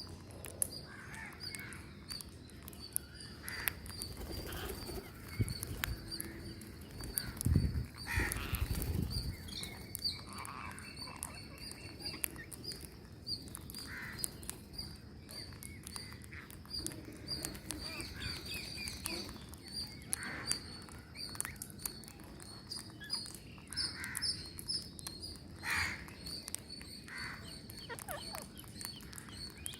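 Several birds calling and chirping: many short, separate calls, over a steady run of rapid high-pitched chirps, with a low rumbling thump about eight seconds in.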